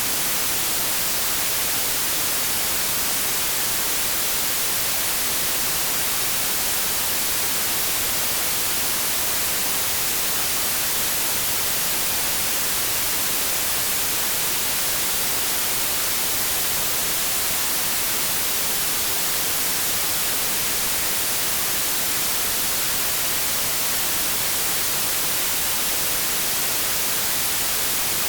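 Continuous synthetic white noise: a steady, even hiss that is strongest in the high end and never changes.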